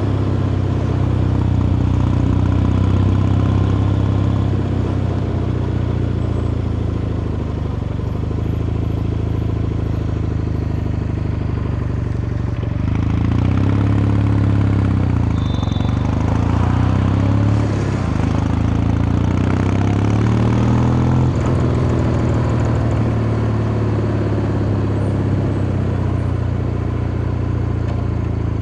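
Kawasaki Meguro K3's air-cooled vertical-twin engine and exhaust running steadily, then revving up and down several times about halfway through, as it does through gear changes under way.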